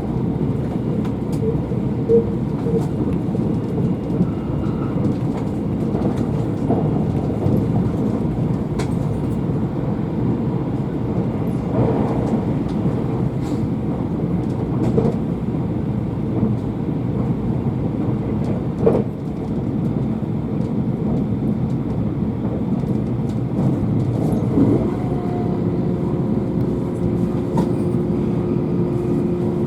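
Running noise of the limited express Shirasagi electric train heard inside a passenger car: a steady rumble with scattered light clicks and knocks. A steady low hum sets in near the end.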